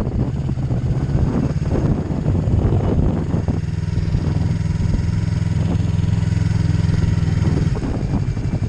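Yamaha MT-03 motorcycle engine running at low, steady revs as the bike rolls slowly. A rushing wind and road noise rides over it for the first three seconds or so. The engine note holds even through the middle and shifts near the end as the bike slows.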